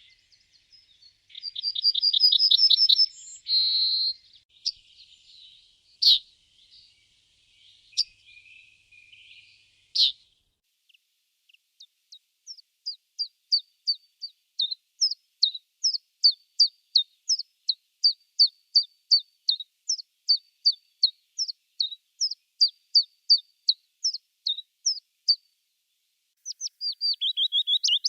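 Small songbirds of a May woodland singing. A quick trill and a buzzy note come first, then a few scattered high notes. A long run of short, high notes follows, evenly repeated about three times a second, and a fast falling trill comes near the end.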